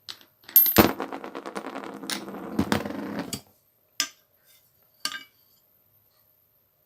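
Metal parts of an angle grinder being handled: a rapid clattering rattle with a faint ring for about two and a half seconds, then two single sharp clicks.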